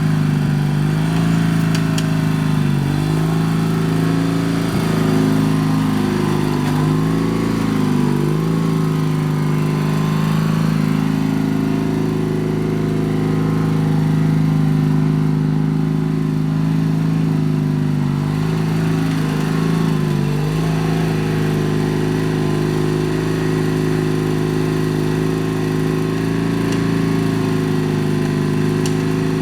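Craftsman LT4000 lawn tractor's vertical-shaft engine running steadily, its speed dipping briefly and recovering three times.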